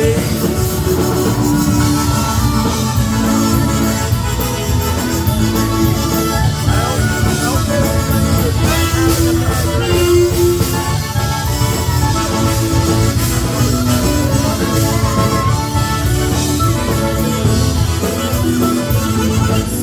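Live polka band playing an instrumental passage with a steady beat and no singing.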